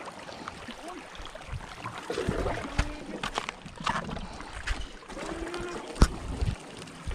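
Water sloshing and lapping against a boat, with faint distant voices and a single sharp knock about six seconds in.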